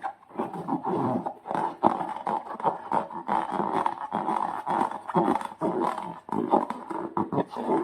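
Slime being squished and worked by hand, with balloons in the mix: a continuous run of irregular wet squelches.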